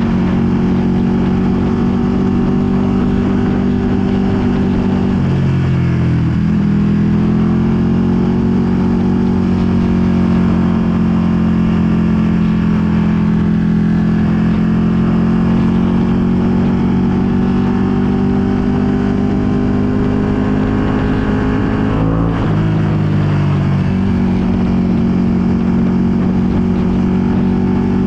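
Ducati Panigale V2's twin-cylinder engine through a full Akrapovic exhaust, running steadily at cruising revs while riding. The engine note dips and recovers about five seconds in. A little after twenty seconds it rises briefly, then settles to a lower note.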